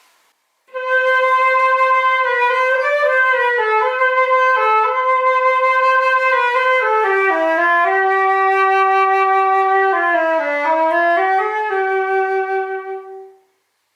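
Concert flute playing a short solo melody in its low register, starting a little under a second in, stepping downward and ending on a held low note.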